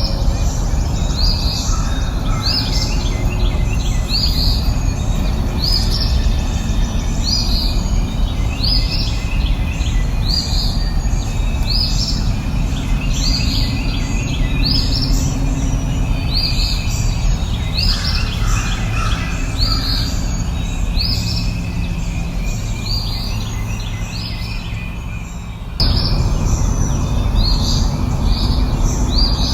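Birds singing outdoors, one bird repeating a short, high chirping call about once a second, over a steady low rushing background noise. About three-quarters of the way through, the background abruptly gets louder.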